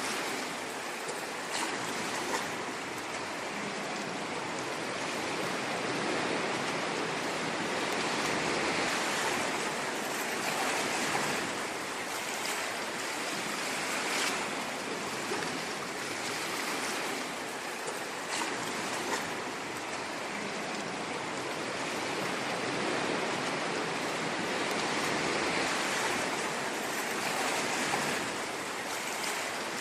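Ocean waves washing on a shore: a steady rushing noise that swells and eases gently every several seconds.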